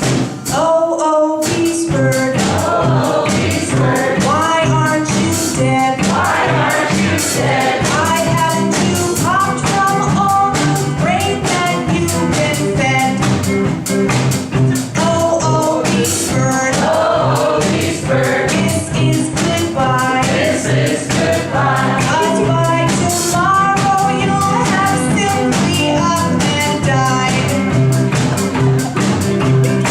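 A live band playing a song: a woman singing lead over guitar, saxophone and a drum kit, with a steady beat.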